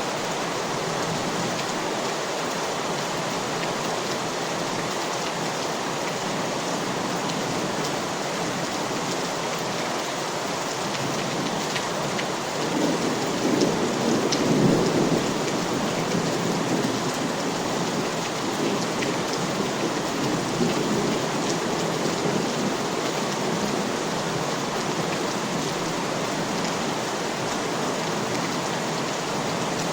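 Steady rain falling, with a low rumble of thunder that swells for a few seconds about halfway through and a fainter rumble a little later.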